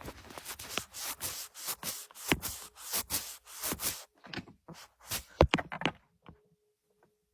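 Rubbing and scraping with light knocks close to the microphone as something is wiped clean; it stops about six seconds in.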